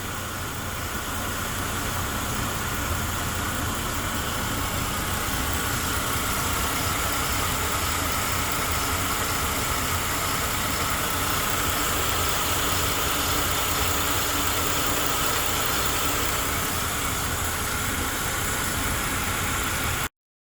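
Mercedes-Benz E300 (W212) engine idling steadily.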